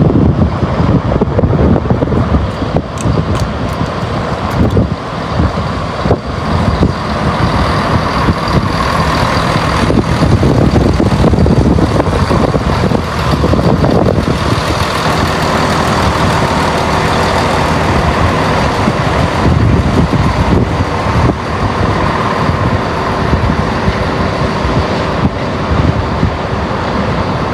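A train running at a station platform, with a steady loud engine or traction rumble. There are scattered clicks in the first few seconds, and a steady hum joins about halfway through.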